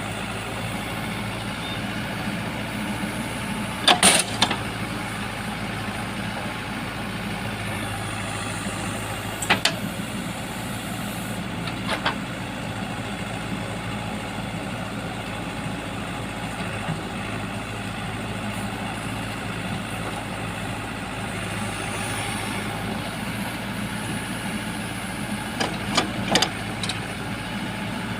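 Heavy diesel machinery engine running steadily at a low, even pitch, with a few sharp knocks breaking in, the loudest about four seconds in and again near the end.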